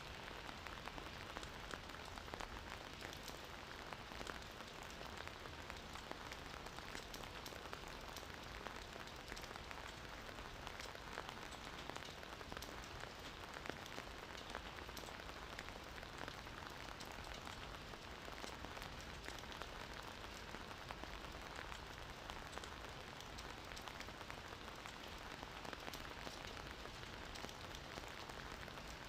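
Steady gentle rain falling on a surface, a soft even hiss dotted with fine patters of individual drops.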